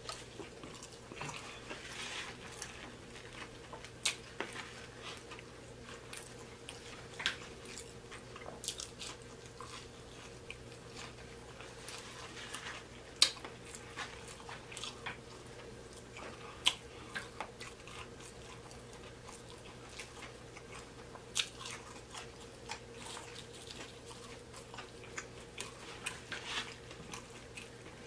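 Close-miked chewing and biting of fried seafood and fries, with sharp, irregular crunches scattered throughout.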